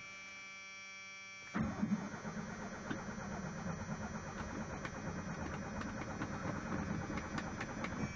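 A steady electrical buzz for about a second and a half, then the 1986 Ford F-150's starter cranking the cold engine for about six and a half seconds without it catching, after the gas pedal has been pumped.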